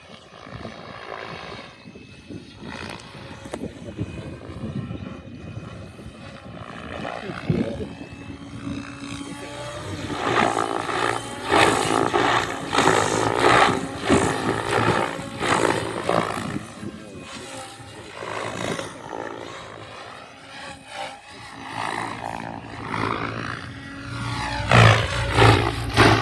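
Radio-controlled model helicopter in flight, its engine and rotor whine rising and falling in pitch as it manoeuvres, louder from about a third of the way in. A strong low hum comes in near the end.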